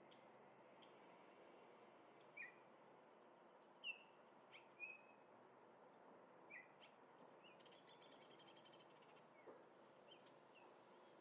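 Songbirds calling faintly: short scattered chirps, then a rapid chatter of about a dozen quick notes around eight seconds in, over a steady background hiss.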